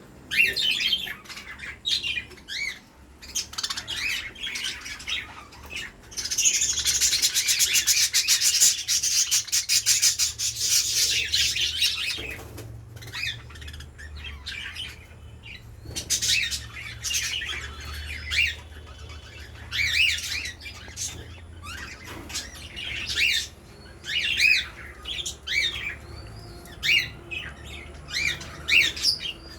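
Pet budgerigars chirping and squawking in short high calls, with a loud, dense stretch of rapid chattering about six seconds in that lasts around six seconds.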